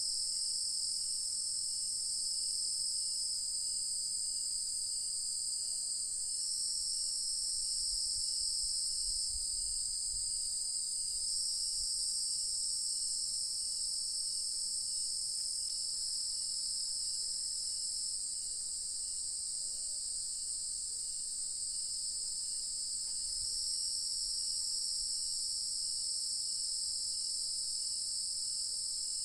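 Dense evening chorus of insects, crickets and cicadas, a continuous high-pitched drone that shifts slightly every few seconds, with a faint, evenly repeated chirp beneath it.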